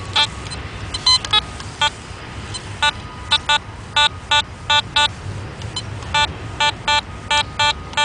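Metal detector giving short, same-pitched target beeps, a few scattered at first and then repeating about three times a second from about three seconds in as the coil passes back and forth over a buried target: a solid repeating signal.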